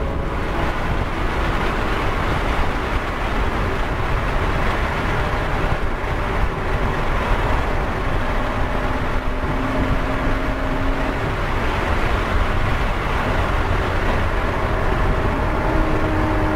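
2014 Porsche Cayman S's 3.4-litre flat-six running hard at high revs on track, heard inside the cabin along with steady wind and tyre noise. It shifts up a gear and later back down.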